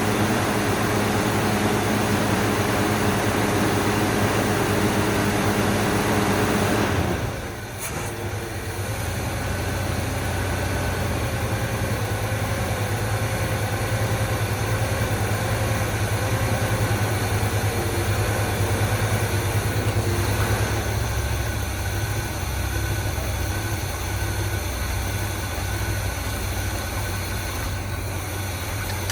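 1984 Chevrolet C20 pickup's engine running on its first start after sitting for about 25 years, settling into an idle. There is a brief dip in level and a change in its note about seven seconds in.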